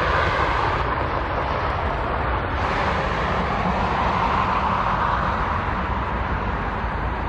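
Steady jet aircraft engine noise at the airfield, a broad rushing sound that swells slightly about four to five seconds in.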